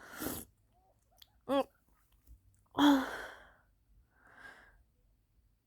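A person's breathy vocal sounds: a rush of breath, then a short voiced sound. The loudest event is a breathy burst about three seconds in, and a softer breath follows.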